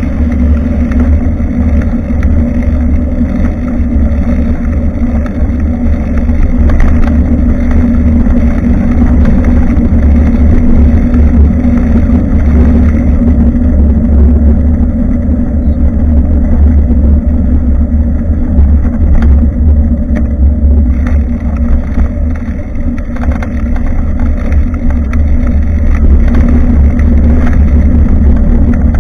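Wind noise and ride vibration rumbling on an action camera's built-in microphone while cycling. A steady low roar runs under road and tyre noise, with a few knocks and rattles.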